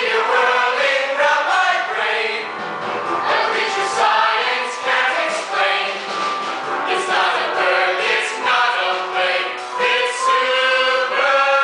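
A chorus of singers performing a show tune together with musical accompaniment.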